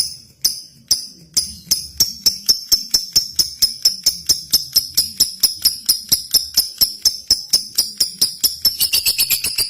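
Lovebird chirping continuously in a fast run of sharp, high-pitched calls, starting at about two a second and speeding up to about five a second; near the end a second, lower tone slides in beneath the calls.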